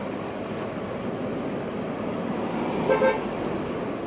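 Steady street traffic noise, with a short double car-horn toot about three seconds in.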